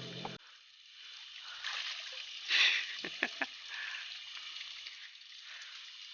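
Steady rush of running water from a jungle stream, with a short voice sound about three seconds in.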